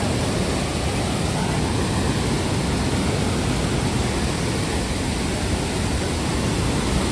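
Steady rushing roar of a waterfall, an even, unbroken noise.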